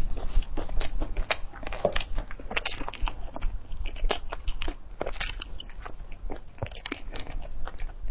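Close-miked chewing of a crisp, flaky flatbread: irregular crunches and crackles several times a second as the bread is bitten and chewed.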